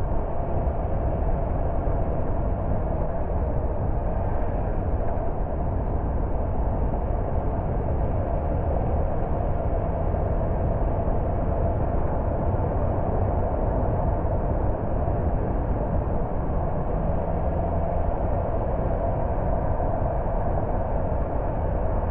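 Car driving along at a steady pace: an even rumble of engine and tyre noise that holds level throughout, with no marked changes.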